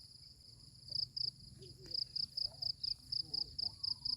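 Insect chirping: a steady, high-pitched pulse of about four chirps a second.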